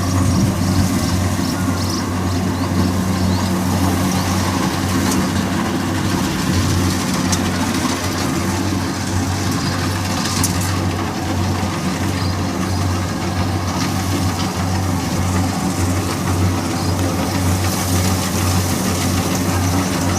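Kubota DC60 combine harvester's diesel engine running steadily at an even speed, a constant deep drone with no change in pitch.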